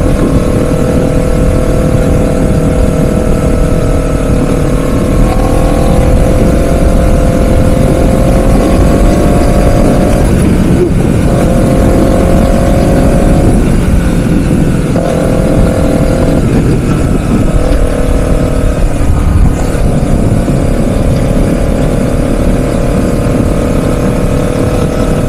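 Honda CBR 250 sport bike's engine running under way at road speed, with heavy wind rush on the onboard microphone. The engine note drops out and changes pitch several times in the middle, then runs steady again.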